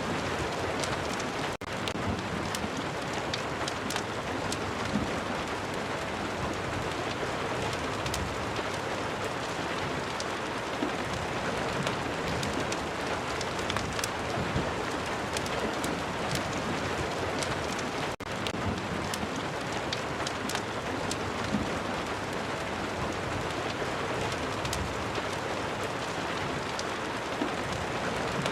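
Steady rain, an even hiss with faint sharp ticks scattered through it. The sound drops out for an instant twice, once near the start and once about two-thirds of the way in.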